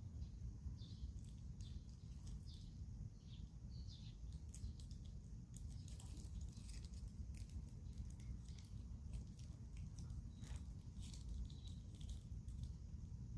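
Swedish torch log fire burning, with irregular small crackles and pops from the wood over a steady low rumble.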